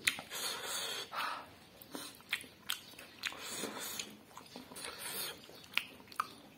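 A person chewing and smacking while eating smoked pork intestine, with irregular sharp wet clicks and short smacking noises.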